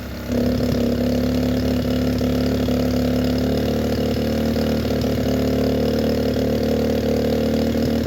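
Small 110cc single-cylinder four-stroke pit bike engine idling steadily. It is still burning some oil after high-mileage no-smoke oil was added, which the owner puts down to worn piston rings.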